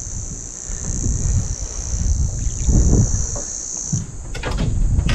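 A steady, high-pitched drone of insects over gusts of wind buffeting the microphone. The insect drone drops away suddenly near the end, with a brief run of clicks.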